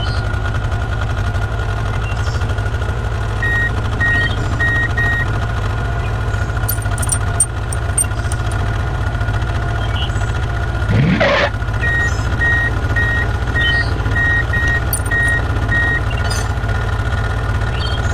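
Heavy construction-vehicle engine running steadily, with a reversing alarm beeping in two spells: a few beeps several seconds in, then a longer run after the middle. A short rising sweep sounds a little past halfway.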